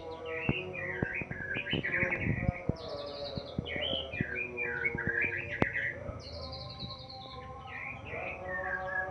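White-rumped shama singing a continuous, varied song of rapid whistles, slurs and trills that rise and fall in pitch, with scattered sharp clicks.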